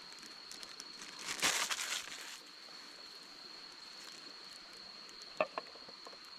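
A brief rustling, crinkling handling noise about a second in and two sharp clicks near the end, over a steady high-pitched whine.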